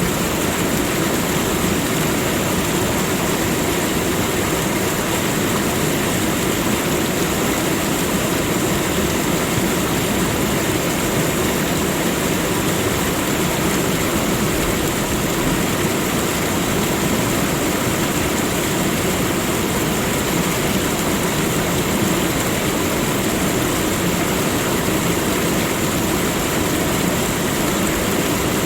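Steady rushing of flowing water, even and unbroken, with no rise or fall in level.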